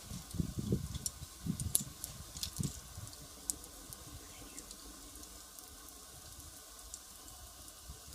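Firewood fire crackling, with sharp snapping pops scattered through it and soft low puffs of flame in the first few seconds, then fewer pops over a faint hiss.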